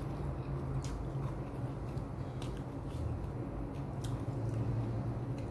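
A person chewing a mouthful of food close to the microphone, with wet squishing and a few sharp mouth clicks about every second and a half, over a steady low hum.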